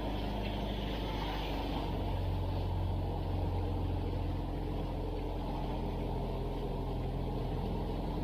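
Small fishing boat's engine running steadily at a constant pitch, a low hum with a dense noisy haze over it.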